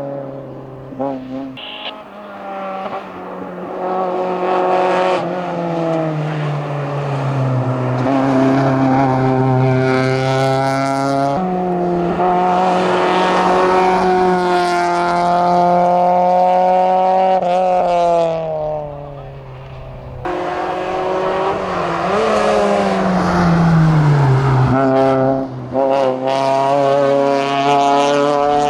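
Opel Corsa A race car's four-cylinder engine at full throttle on a hillclimb, revs climbing and dropping sharply at each upshift, easing off and then pulling hard again.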